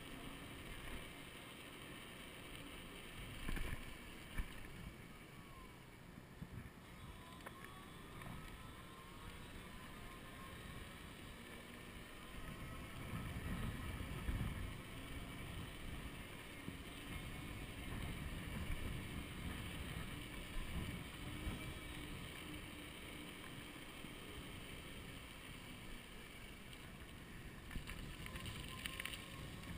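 Wind buffeting the microphone of a chest-mounted camera on a moving electric bicycle, as a low rumble that grows heavier in gusts about halfway through. Under it a faint whine slides up and down in pitch, from the Golden Motors 48-volt 1000-watt rear hub motor.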